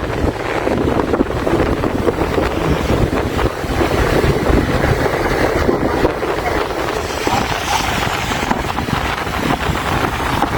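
Wind buffeting the microphone: a loud, rough, rushing noise that rises and falls unevenly throughout.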